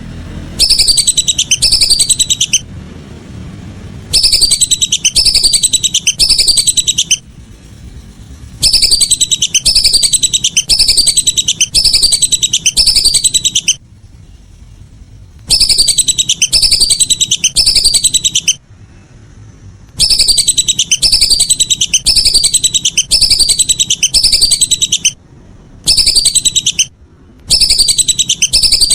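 Whistling duck (belibis) calls: a fast series of falling whistled notes in bouts of a few seconds, with short pauses between, played on a loop as a hunting lure call.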